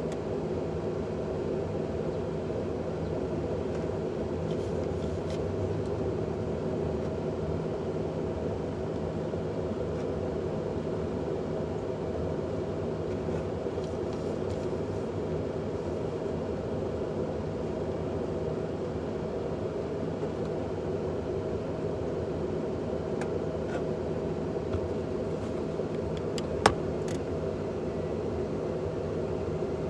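Pickup truck engine running steadily at a constant speed. A single sharp click sounds near the end.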